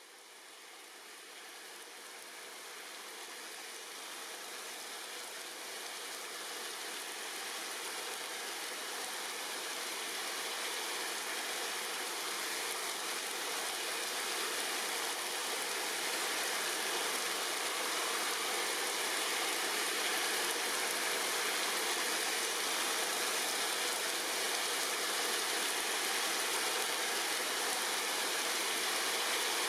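Steady rain falling on tree leaves, an even hiss that fades in from faint and grows louder over the first fifteen seconds or so, then holds level.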